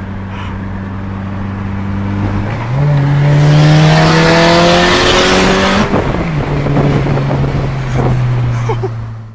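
Turbocharged Scion tC four-cylinder engine heard from inside the car: a steady cruising note, then about three seconds in it is pushed harder, its pitch rising under a loud rushing hiss. Near six seconds the hiss stops and the pitch drops as the throttle comes off, and the engine settles back to a steady, lower cruise.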